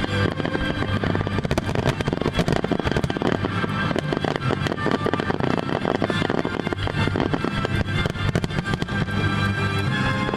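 A rapid, unbroken barrage of fireworks bangs and crackles, with music playing underneath.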